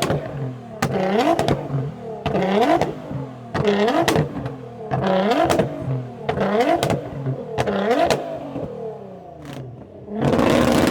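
A car engine free-revved over and over in short blips, each rev rising in pitch and falling back, with sharp cracks from the exhaust. About ten seconds in, a louder, steadier rush of engine noise takes over.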